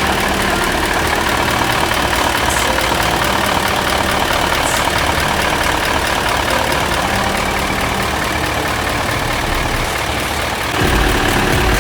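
Mitsubishi Fuso Super Great truck's 8M20 V8 diesel engine idling steadily. Near the end the low rumble gets deeper and stronger.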